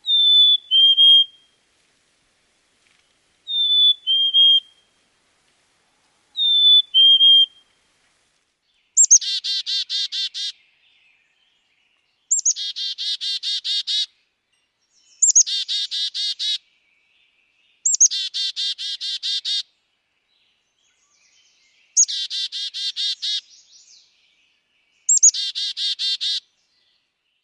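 Black-capped chickadee: three whistled two-note "fee-bee" songs, the second note lower than the first. These are followed by six "chick-a-dee-dee-dee" calls, each a high opening note followed by a rapid run of harsh, buzzy "dee" notes.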